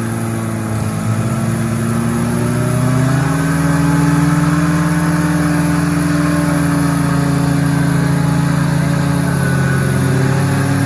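Off-road 4x4's engine running under load, its pitch rising about three seconds in and then held at high revs.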